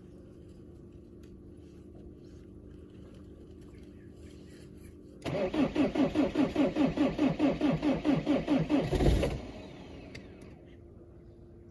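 BMW diesel engine being cranked by its starter in deep cold, with an even rhythm of about five compression beats a second. After about four seconds the cranking stops abruptly and the engine does not catch.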